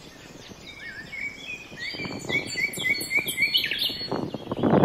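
Small birds calling: a quick run of short, repeated chirps. A loud rushing noise builds up beneath them from about halfway in.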